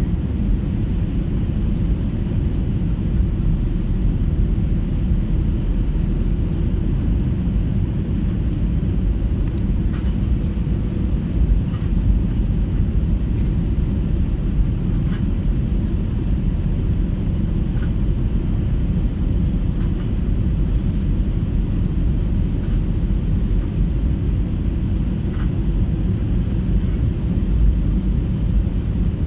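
Steady low rumble of an airliner heard inside the cabin: engine and airflow noise, even throughout with a faint steady hum.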